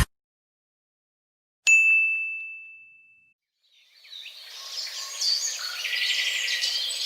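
A single bright ding, a clear bell-like tone that fades out over about a second and a half. From about four seconds in, birds chirping busily.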